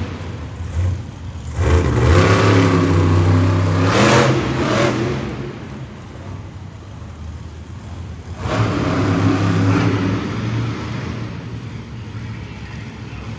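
Monster truck engine revving hard twice: a loud run about two seconds in lasting around three seconds, then a second, shorter rev about eight seconds in that fades back down.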